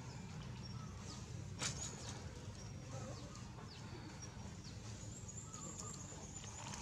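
Faint outdoor ambience: short, high bird chirps here and there over a steady low hum, with one sharp click about one and a half seconds in.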